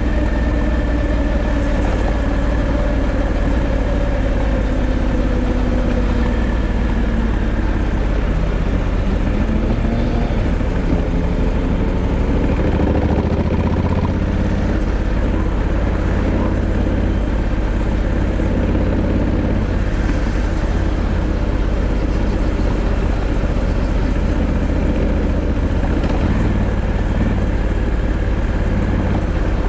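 Honda Africa Twin 1100's parallel-twin engine running steadily, its pitch easing down over the first several seconds, then climbing again and shifting with throttle changes, over a heavy low rumble.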